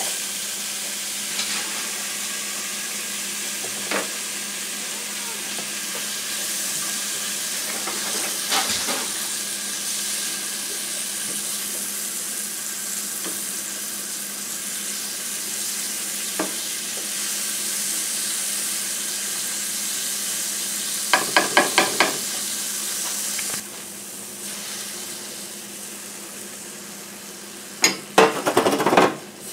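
Cooked beans sizzling in a hot, oiled Red Copper ceramic nonstick frying pan, the hiss starting suddenly as they drop in and running steadily as a plastic spatula stirs and scrapes them. A quick run of about five taps comes a little after twenty seconds, and near the end a louder spattering burst as beaten eggs go into the pan.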